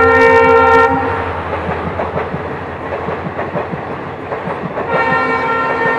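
Passenger train passing close by: the diesel locomotive's horn sounds and cuts off about a second in, then the coaches' wheels clatter over rail joints in a quick run of clicks, and the horn sounds again near the end.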